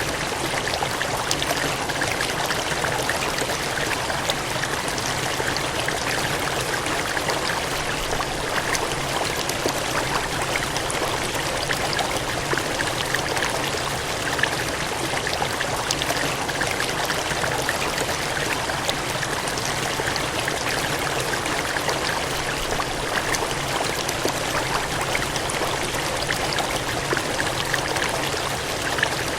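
Water gushing and cascading in a steady, unbroken rush with fine splashing.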